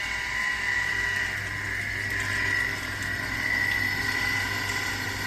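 A machine running steadily, with a high whine and a low hum that hold at a constant pitch.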